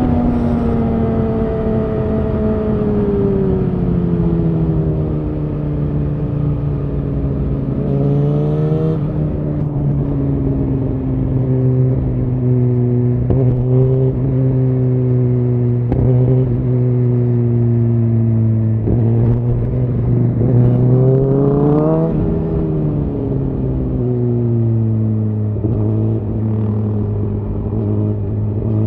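Suzuki GSX-R1000R inline-four engine with a Yoshimura R-11 SQ exhaust, running under way at moderate revs. The revs ease off over the first few seconds, pick up briefly around eight seconds in, hold steady, climb around twenty seconds in and drop back, then rise again near the end.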